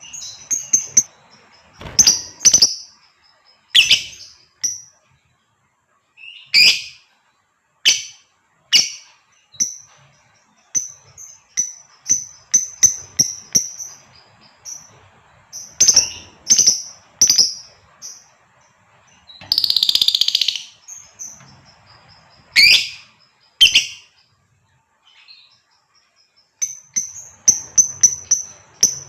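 Female lovebird calling: irregular bursts of short, sharp, high-pitched chirps. About twenty seconds in comes one longer harsh screech.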